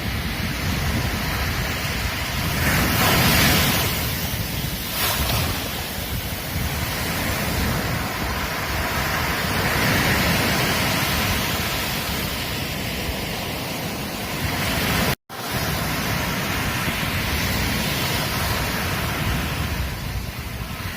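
Ocean surf washing onto a beach: a continuous rush of breaking waves that swells louder a few seconds in and again about halfway, with wind buffeting the microphone. The sound cuts out for an instant about fifteen seconds in.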